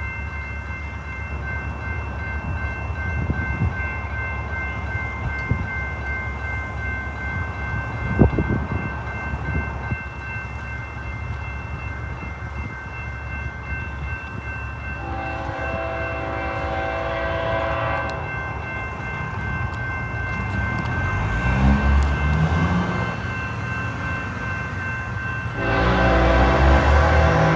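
Diesel-hauled train running with a steady low rumble. Its air horn sounds twice: a blast of about three seconds around halfway through, and another that starts near the end and is the loudest part.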